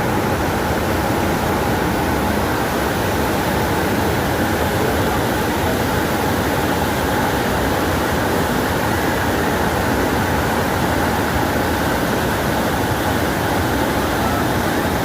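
Roar of a waterfall's white water, a steady, even rush of noise.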